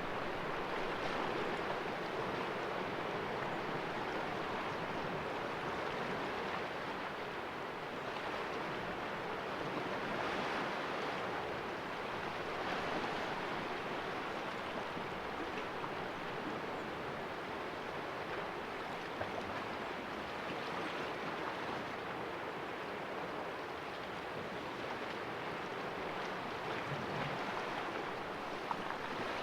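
Sea waves splashing against the rocks of a small cove: a steady wash of surf that rises and falls gently.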